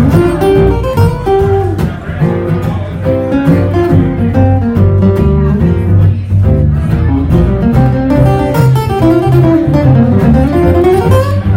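Live bluegrass band playing an instrumental break: picked acoustic guitar melody over an upright bass line.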